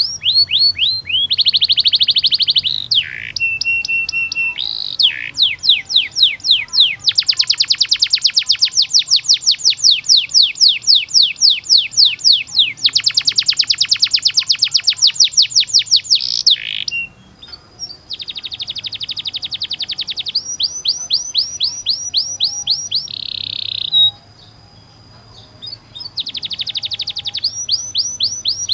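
Domestic canary singing long rolls: fast runs of rapidly repeated sliding notes, switching from one roll to the next, with a couple of brief lulls past the middle.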